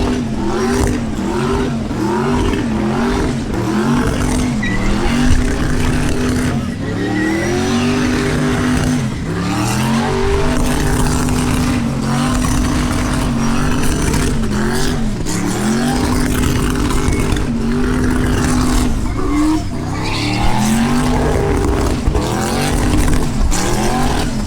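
A V8 engine revving hard: at first the revs bounce up and down about once a second, then they are held high for a couple of seconds at a time with short dips, as in a burnout.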